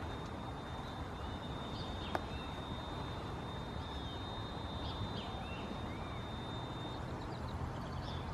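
Steady low background rumble with scattered short chirps from small birds. A thin, steady high tone runs until about seven seconds in, and there is one sharp click about two seconds in.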